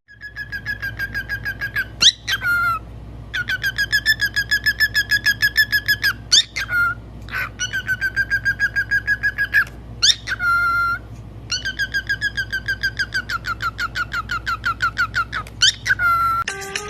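Pet parrot whistling a rapid warbling trill, about seven pulses a second, in four long runs broken by short upward-swooping whistles.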